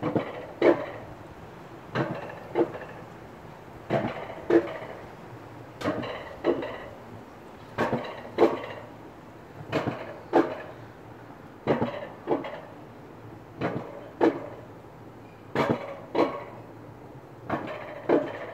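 Alpine coaster sled rolling slowly on its metal track near the finish, with a rhythmic double clunk about every two seconds.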